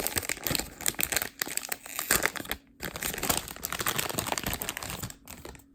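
Plastic wrapping crinkling as it is handled, in a rapid run of crackles with a brief pause midway, fading out near the end.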